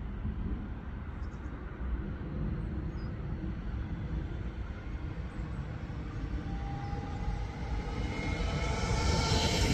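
Train approaching through the station: a low rumble throughout, joined about two-thirds of the way in by steady high-pitched tones, with a bright hissing screech growing louder near the end.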